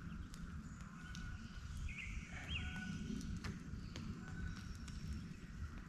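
Woodland ambience: several birds chirping and whistling in short calls over a steady low rumble, with scattered light ticks.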